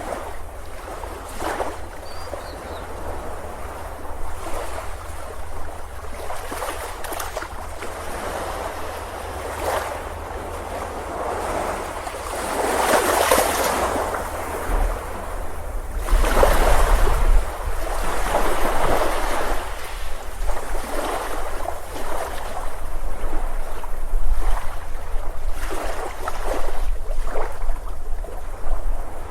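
Ocean waves breaking on a beach: the surf rises and falls in repeated washes, and the biggest breakers come about halfway through.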